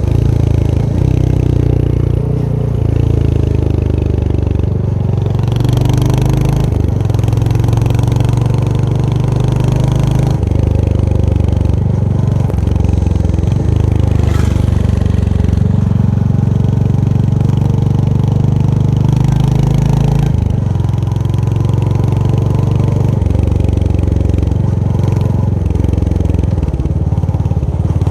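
Royal Enfield Hunter 350's single-cylinder engine and exhaust running under way, its pitch stepping up and down every few seconds as the revs change through shifts and throttle.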